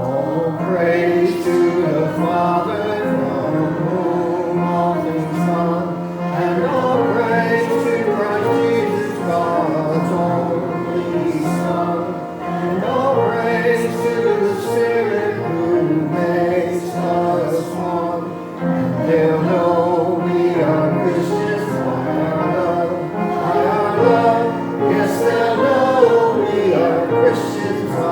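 Church congregation singing a hymn together, many voices in unison.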